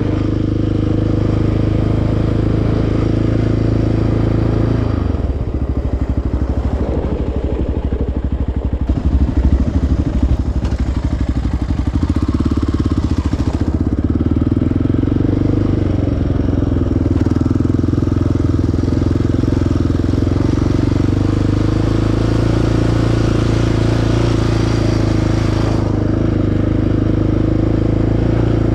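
Single-cylinder ATV engine running on the trail: steady, then dropping to low revs about five seconds in, with a few blips of throttle, then back to steady running.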